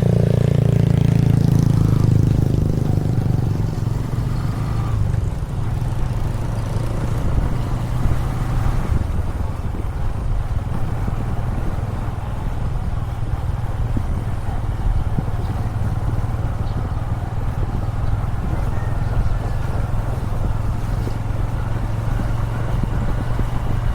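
Motorcycle engine running steadily while riding along a road, with road and wind noise. It is louder for the first few seconds, then settles to an even level.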